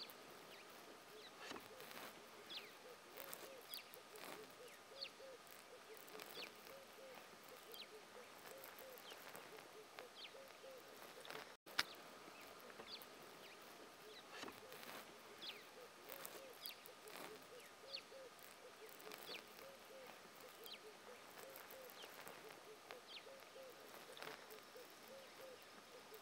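Faint birds calling: a low phrase of quick short notes repeated over and over, with thin high downward whistles in between. A single sharp click a little before the middle.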